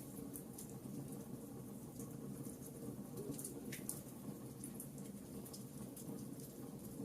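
Wood fire burning in a fireplace, crackling with irregular sharp pops over a steady low rumble; one louder pop comes a little before the middle.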